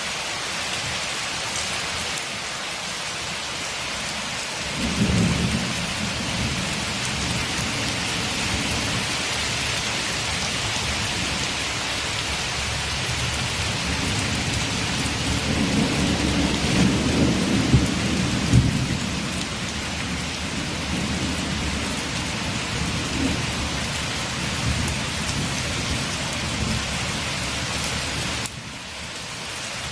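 Steady rain, with a long roll of thunder that starts about five seconds in, swells, and dies away over some twenty seconds.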